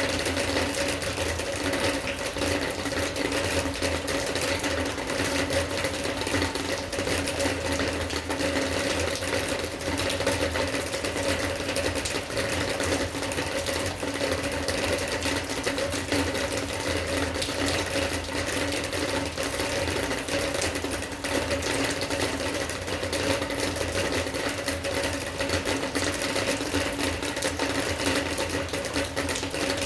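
Steady rain: a dense, even patter of drops with a low steady hum underneath.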